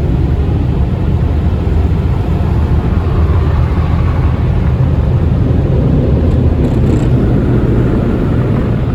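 Dry n Shine car wash dryer blowers blasting air over the car: a loud, steady rushing roar that holds the same level throughout.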